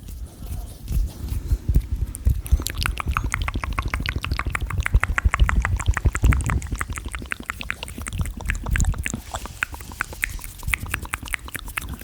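Fast, wet ASMR mouth sounds close to the microphone: rapid tongue clicks and lip smacks, several a second, starting about two and a half seconds in, over low thumps.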